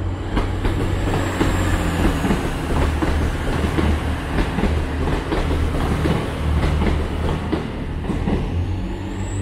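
TransPennine Express Class 185 diesel multiple unit passing as it pulls out, a steady low drone from its underfloor diesel engines with irregular clacks of the wheels over the trackwork.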